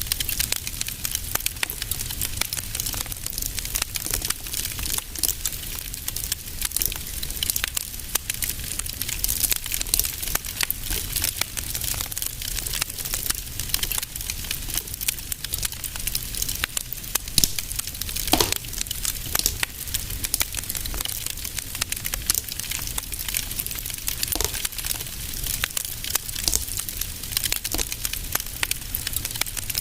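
Wood fire crackling in a fireplace: a dense, steady stream of small pops and snaps over a soft hiss and a low rumble, with one louder snap a little past halfway.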